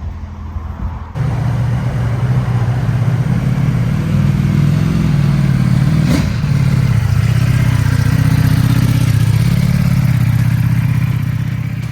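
Ducati Panigale V4 S's V4 engine running loudly, coming in suddenly about a second in, holding fairly steady with small rises and dips, and fading near the end.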